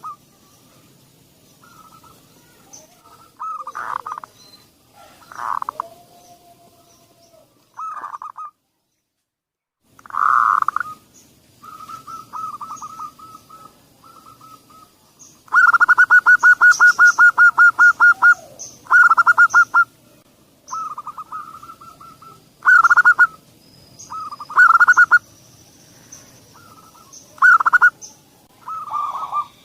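Zebra doves (perkutut) cooing, phrase after phrase, with a fast rattling run of short coos lasting about three seconds midway and a brief silent gap before it. This is a lure recording of perkutut song, played to get a quiet dove to start singing.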